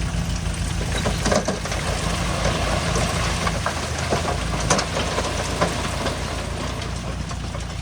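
Heavy diesel engine running steadily, with a few sharp knocks and clanks on top.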